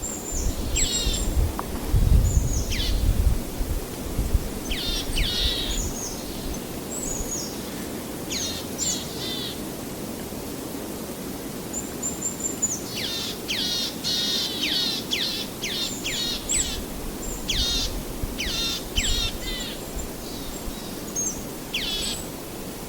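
Songbirds singing in short phrases of quickly falling high whistled notes, some in fast runs, over a steady low rushing background with a heavier low rumble in the first few seconds.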